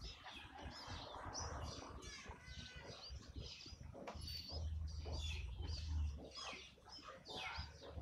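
Small birds chirping: quick, short high chirps, two or three a second, with a low rumble in the middle.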